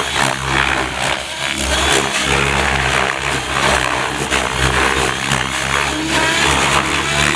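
Gaui X7 radio-controlled helicopter in 3D aerobatic flight: rotor and drivetrain whirring steadily, with the blade noise swelling and easing as the manoeuvres load the rotor.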